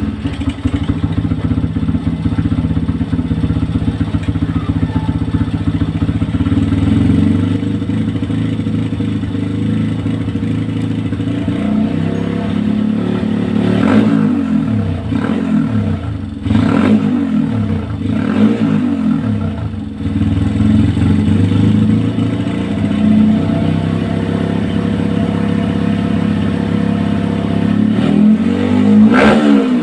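Motorcycle with an aftermarket racing exhaust idling steadily, then revved up and let fall back several times in the middle and once more near the end.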